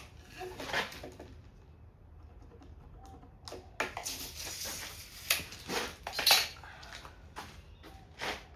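Knocks and clatters of hand tools, hardware and timber being handled, about eight separate sharp hits with a longer scraping noise around four seconds in.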